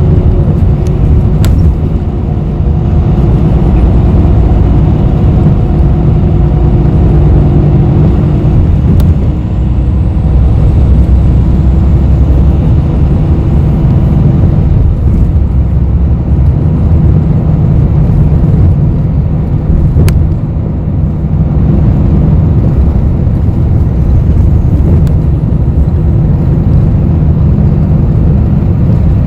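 Bus interior: engine and road noise with a steady low rumble, a faint humming tone that fades about eight seconds in, and a few light ticks.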